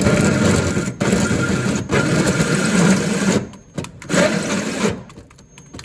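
Drill driving a hole saw that cuts through the car's sheet-metal floor, run in bursts: it stops briefly about a second in and again just before two seconds, eases off after about three and a half seconds, runs once more and stops about five seconds in.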